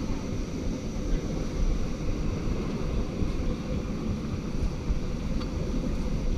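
Steady rumble of a moving railway carriage running along the track, heard from a window seat, with wind buffeting the microphone.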